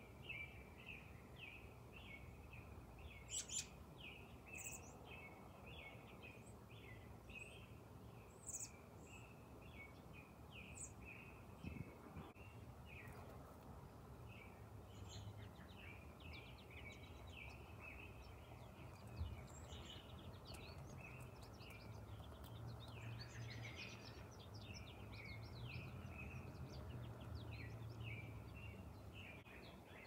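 Faint, quick chirping of small birds, a couple of short high chirps a second, over a low steady hum of background noise.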